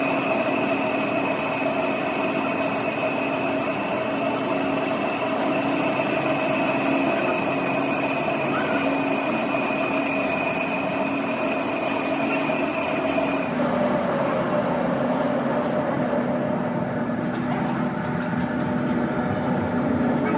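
A workshop machine running steadily with a constant whine. About two-thirds of the way through, the sound changes abruptly: the high hiss and the upper whine drop out while a lower hum carries on.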